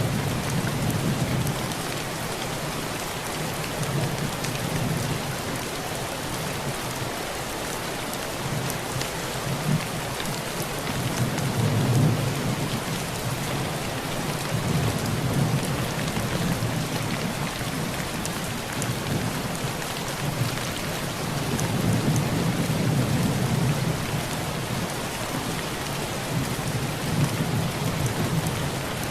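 Heavy rain drumming steadily on a tin roof, with low rolls of thunder swelling and fading several times, the strongest about twelve seconds in.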